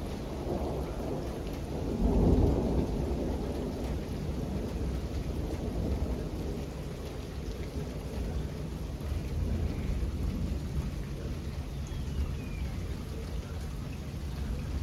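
Thunder rumbling over steady rain, swelling to its loudest about two seconds in and then rolling on more softly.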